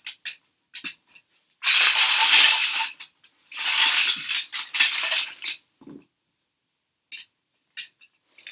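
Plastic Duplo train-set pieces clattering against each other as they are rummaged and handled, in two long bursts of a second or two each, with scattered clicks around them.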